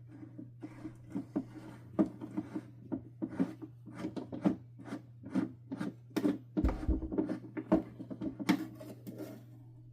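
Hard plastic housing parts of a Hoover Dimension 1000 canister vacuum being handled and worked apart on a workbench: irregular clicks, scrapes and rubbing. A few heavier knocks and thumps come in the second half.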